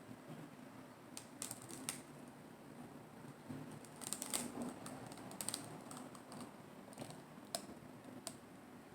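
Close-miked crisp crunches and crackles of lettuce salad wraps, in a few short bunches with single sharp cracks near the end.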